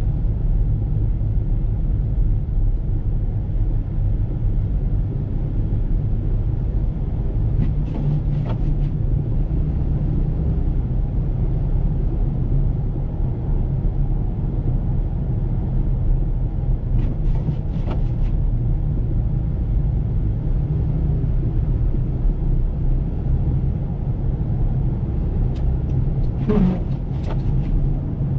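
Road vehicle driving with a steady low rumble of engine and tyres on the road. Brief louder noises break in about 8 seconds in, again around 17 seconds, and near the end, where the last one carries a short rising tone.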